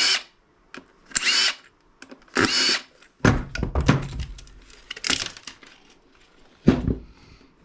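Power drill-driver run in several short bursts while disassembling a small appliance, with a few heavier knocks of parts being handled.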